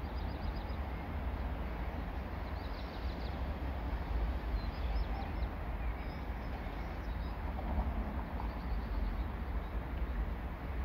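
Freight train of tank wagons rolling past with a steady low rumble. Small birds chirp in short, quick high series now and then above it.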